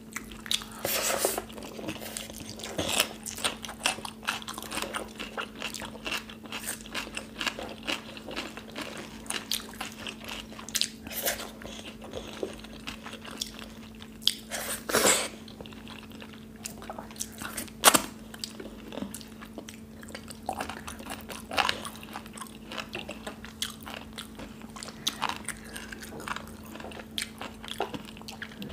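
Close-miked eating sounds of two people eating rice and kadhi pakoda with their fingers: chewing with many sharp wet smacks and clicks, the loudest about 15 and 18 seconds in, over a faint steady hum.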